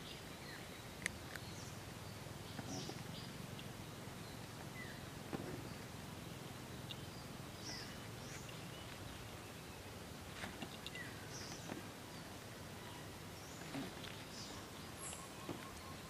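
Scattered short bird chirps over a steady outdoor background, with a few sharp clicks of a kitten crunching dry kibble.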